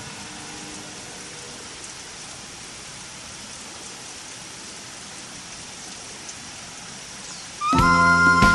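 A steady, even hiss with a few faint ticks; loud music with held tones starts near the end.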